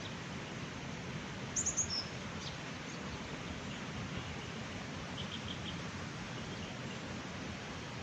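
Steady rush of flowing water, with a songbird chirping three quick high notes and a falling note about a second and a half in, and a faint short trill a few seconds later.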